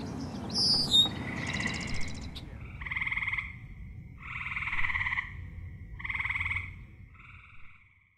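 Frogs calling: four short trilled calls, each about a second long, come in steady succession over a low steady background noise. A brief bird chirp and a short buzz come before them near the start.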